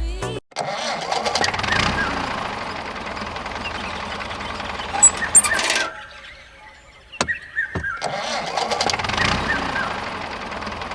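Tractor engine starting and running. It cuts out about six seconds in, then after two clicks it starts and runs again near eight seconds.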